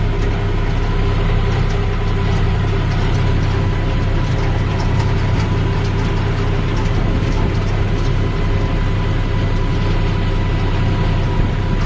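John Deere tractor's diesel engine running at a steady, even speed.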